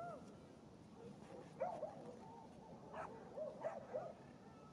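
A dog whimpering, with short high whines and yips in small clusters.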